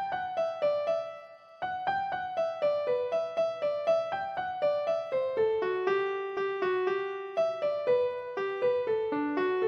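Background music: a melody of quick piano notes, several a second, with a short break a little over a second in.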